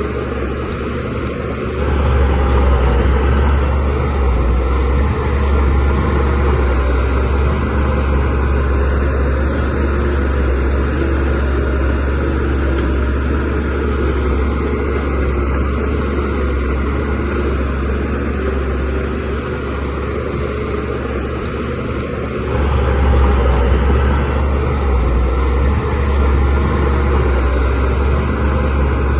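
Shantui DH17C3Pro bulldozer's diesel engine running steadily with a deep drone, growing louder about two seconds in and again about three-quarters of the way through.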